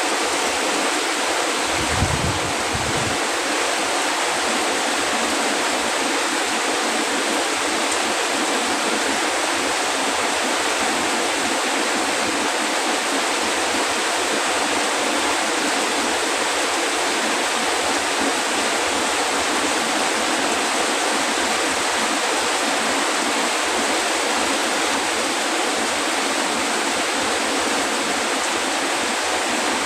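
Heavy rain falling, a steady, unbroken hiss. A brief low thump about two seconds in.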